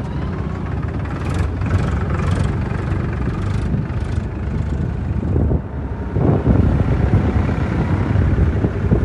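Powertrac 47 diesel tractor engine running steadily with a low rumble, with a few short bursts of noise in the first few seconds; it gets louder about six seconds in.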